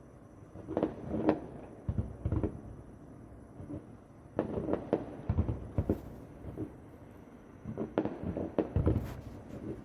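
Fireworks bursting about a kilometre away: four volleys of sharp bangs and crackles with a low rumble, separated by short lulls.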